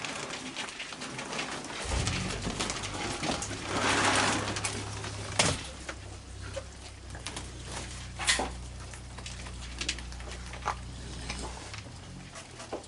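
Raccoons making low, soft cooing calls, with scattered sharp clicks and a brief rustle about four seconds in.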